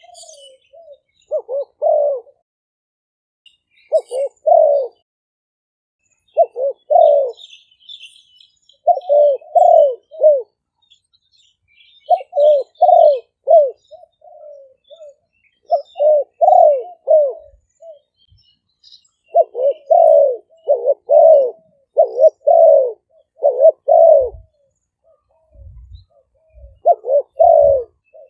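Spotted dove cooing: repeated phrases of two to six coos, each group followed by a short pause. This is a tame decoy bird's call, the kind played to lure wild spotted doves.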